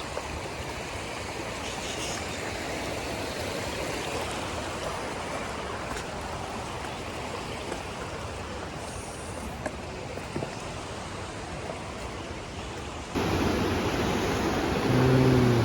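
Steady rush of flowing river water, heard as an even hiss. About 13 seconds in it jumps abruptly louder, and a short low pitched tone sounds near the end.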